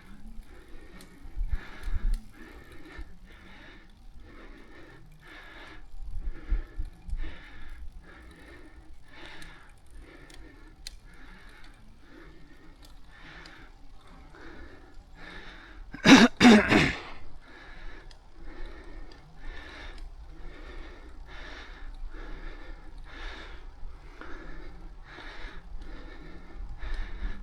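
A cyclist breathing hard while riding, in quick, regular breaths, with one loud cough a little past the middle.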